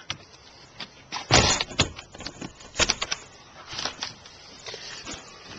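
Irregular knocks and thuds of someone moving about and handling things, with a sharp knock about a second and a half in and another near three seconds.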